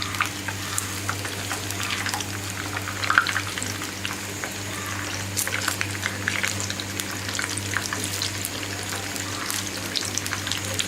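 Crumb-coated chicken chops deep-frying in hot oil on raised heat: a steady sizzle full of small crackling pops, over a low steady hum.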